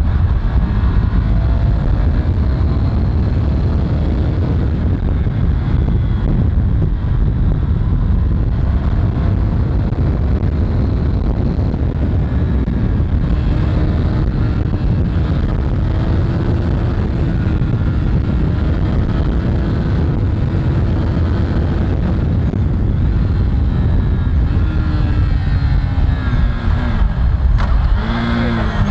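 A KTM 390 single-cylinder motorcycle being ridden, with heavy, steady wind rush on the rider's camera mic and the engine note rising and falling through the ride.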